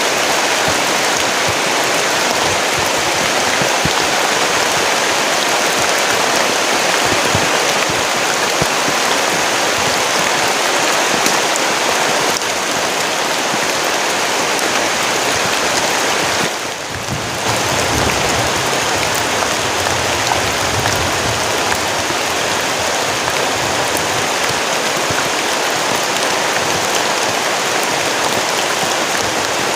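Heavy tropical rain pouring down steadily in a forest, a dense, even hiss that dips briefly a little past halfway.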